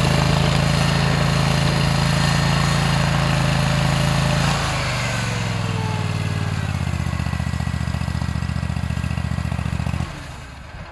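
Rented stump grinder's gasoline engine running steadily at full throttle. It is throttled down in two steps around the middle, then shut off near the end.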